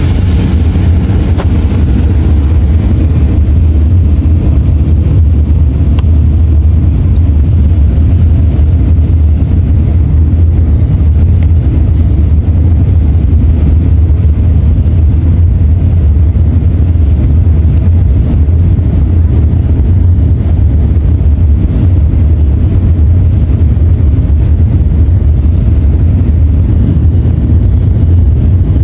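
Steady, loud, deep rumble of a jet airliner cabin in flight or on the takeoff run: the Boeing 737-500's twin CFM56-3 turbofan engines and the airflow past the fuselage.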